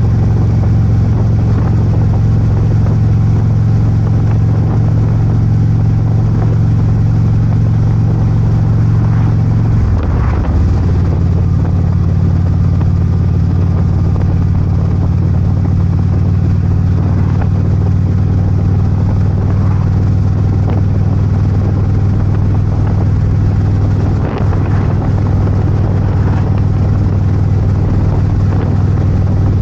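Harley-Davidson Ultra Limited V-twin engine running steadily while riding, with the engine note changing about ten seconds in.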